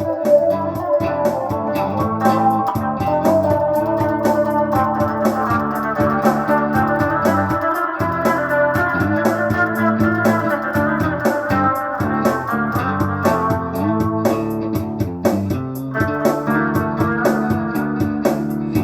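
Instrumental break of a song: organ chords and guitar over a steady beat.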